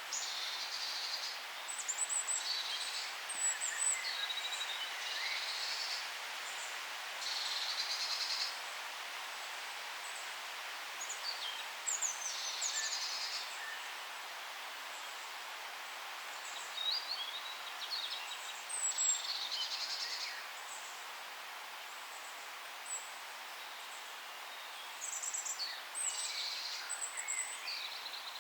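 Songbirds singing in a forest: short, high trilled phrases and chirps repeated every second or two over a steady background hiss, with a lull in the songs about three-quarters of the way through.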